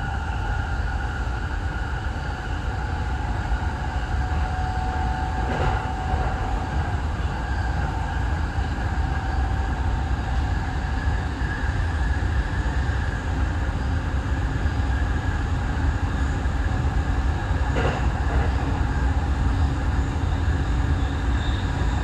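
Running noise of a TWR 70-000 series electric train under way: a steady low rumble with a constant whine from the drive. Two brief clicks come through, about six seconds in and again near eighteen seconds.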